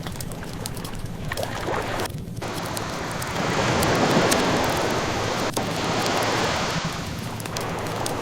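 Ocean waves washing in, one swell building about three seconds in and easing off near the end, with the light crackle of a burning wood fire scattered throughout.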